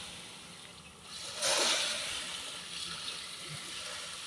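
Small sea wave breaking and washing up the beach, surging about a second and a half in and then fading as it draws back.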